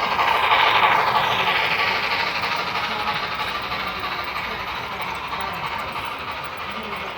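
HO scale model train running along the layout's track, its wheels and motor making a steady rolling rattle that is loudest about a second in and then slowly fades as it moves away.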